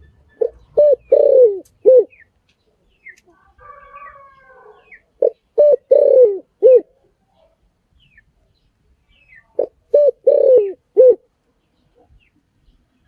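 Spotted dove cooing: three phrases of four low notes, a few seconds apart, the third note of each phrase longer and falling away at the end. Fainter chirps of other birds come between the first two phrases.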